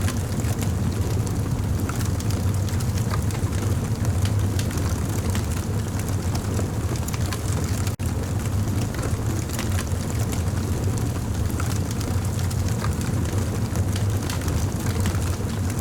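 Campfire burning: a steady low roar of flames with frequent small crackles and pops from the burning wood, and a momentary break in the sound about halfway through.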